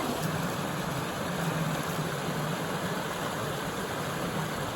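Steady rushing of a shallow mountain stream, with a low steady hum underneath.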